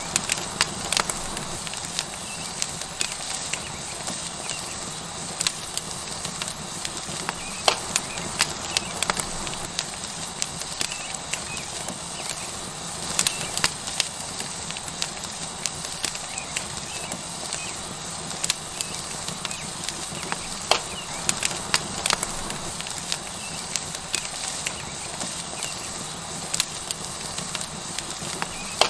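Tomahawk steak sizzling on a hot rock over a wood fire: a steady hiss with frequent sharp crackles and pops.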